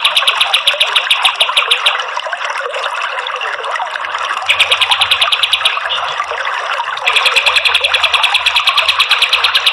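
Recorded song of a kapas tembak (pied triller): rapid trills of fast repeated notes, about fifteen a second, in three bouts with short breaks, over a steady rushing hiss.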